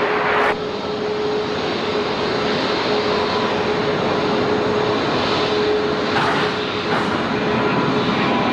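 Jet airliner engines: a steady, loud rush of jet noise with a faint steady whine held through it.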